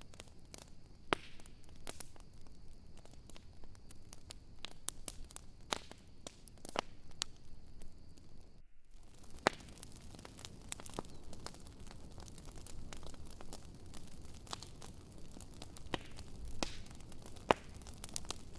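Wood fire in a bonfire crackling and popping: irregular sharp pops, some louder than others, over a steady low hiss, with a brief break in the sound about nine seconds in.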